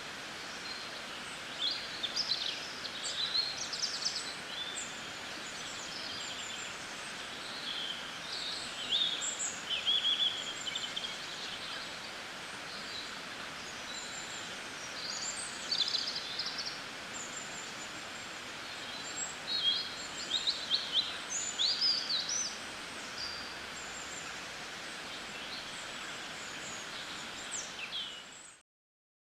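Small birds chirping and twittering in short bursts over a steady outdoor background hiss. The sound cuts off suddenly near the end.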